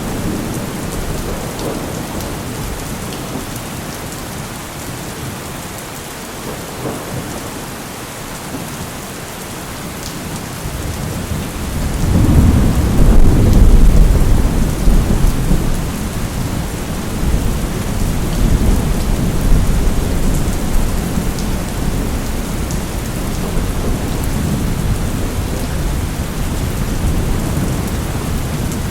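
Steady rain with thunder: a deep roll builds about twelve seconds in, is loudest shortly after, and goes on rumbling under the rain.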